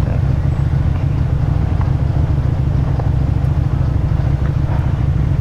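Motorcycle engine running steadily at a low, even pitch, heard from the rider's own bike.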